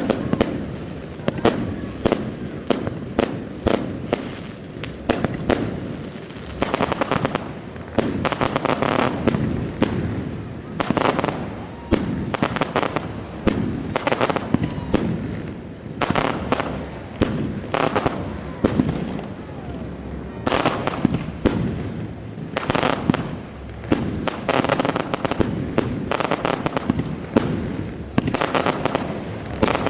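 Fireworks display: clusters of many rapid bangs and crackles, one after another, with brief lulls every few seconds.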